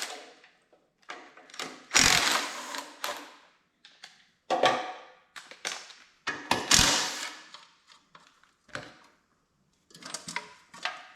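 Metal clanks and rattles from tools and sheet-metal tractor parts being handled during disassembly: a string of separate knocks, the two loudest about 2 and 7 seconds in, each ringing briefly, and a quick run of small clicks near the end.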